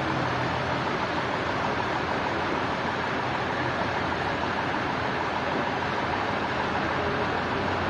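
Sawmill machinery running with a steady, even noise and a faint high tone, without letting up.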